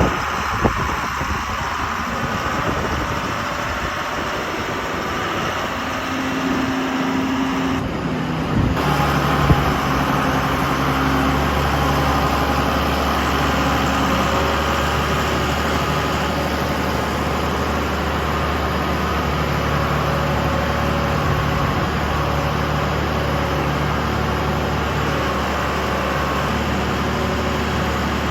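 An engine running at a steady speed, with an abrupt change in the sound about eight seconds in, after which the low hum holds even.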